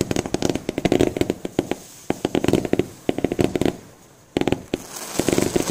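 Low-noise fireworks firing in volleys: dense, rapid crackling with no big bangs, coming in four or so bursts separated by brief lulls, and a rushing hiss building near the end.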